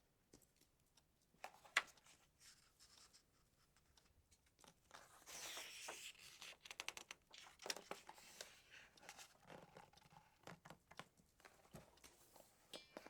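Faint handling of a paper book: pages rustling and being turned, with scattered light taps and clicks and a longer rustle about five seconds in.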